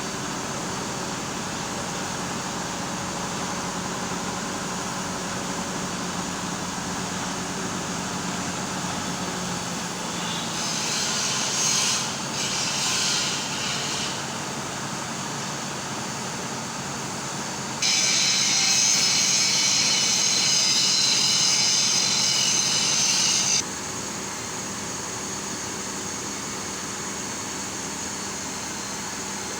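Heavy vehicle engine running steadily. There is a short burst of hiss about ten seconds in, and a louder steady hiss a little past the middle that lasts about six seconds and starts and stops abruptly.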